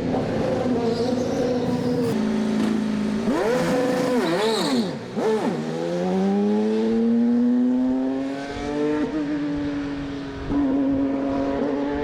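IndyCar twin-turbo V6 engine running at low revs, blipped sharply up and down twice about four seconds in, then pulling away with revs rising slowly and evening out.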